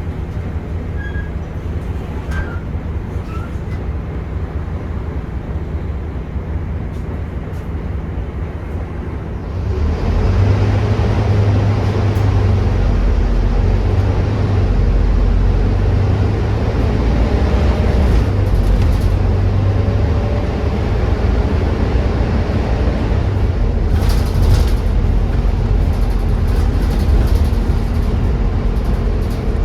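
Volvo B9TL double-decker bus's six-cylinder diesel engine heard from inside the bus, running steadily and quietly at first, then growing clearly louder about ten seconds in as the bus pulls harder and gathers speed, staying loud to the end.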